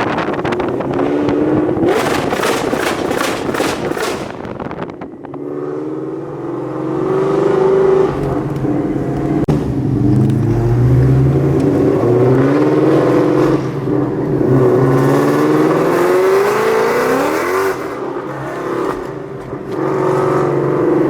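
Car engine accelerating hard, its pitch climbing and dropping back several times as it runs up through the gears. A quick run of sharp cracks comes near the start.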